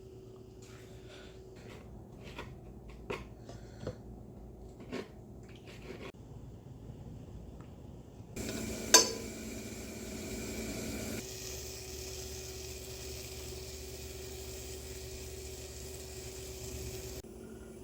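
Dishes and cutlery clattering: scattered light knocks and clinks. About eight seconds in, a steady whirring noise with a low hum starts, with one sharp loud clack just after it begins, and it stops abruptly near the end.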